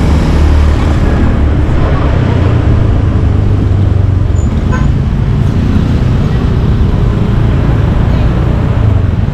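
Riding on a motorcycle through traffic: continuous loud engine and road noise with a heavy, steady low rumble.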